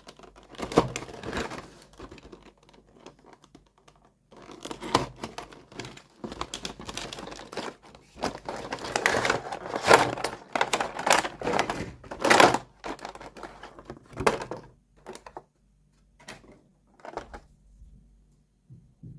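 Plastic packaging crinkling and tearing in irregular bursts as a miniature toy set is unwrapped. The handling is busiest through the middle, then thins to a few short, separate rustles near the end.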